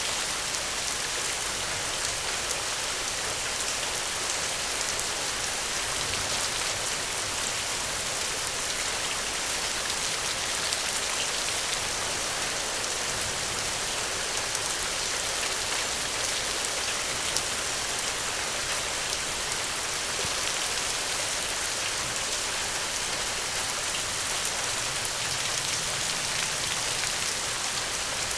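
Steady gentle rain: an even hiss of falling drops with many faint individual drop ticks, unchanging throughout.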